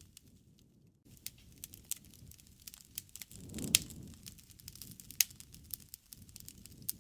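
Wood fire crackling, with a steady scatter of small snaps and sharp pops. The loudest pop comes a little past halfway, with a brief low rumble around it, and two more strong pops follow.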